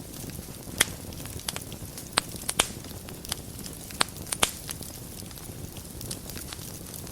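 Wood fire burning in a fireplace: a steady low rumble with sharp crackles and pops, bunched in the first half, the loudest about four seconds in.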